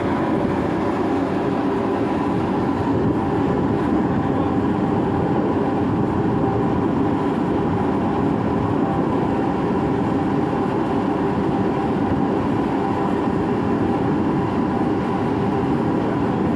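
A boat's engine running steadily under way, a continuous loud drone with water and hull noise mixed in.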